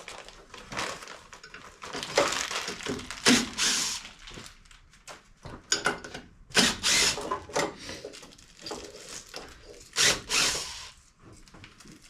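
A hand ratchet with a 3/8-inch socket turning a bolt in the engine bay, in irregular spells of clicking and metal tool clatter. The loudest spells come about two, six and ten seconds in.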